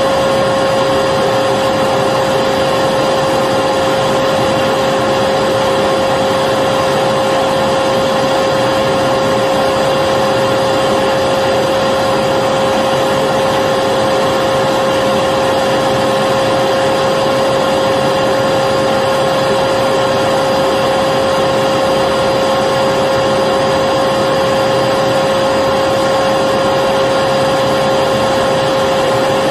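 Electric vacuum cleaner running steadily: an even rushing hum with a high motor whine that does not change.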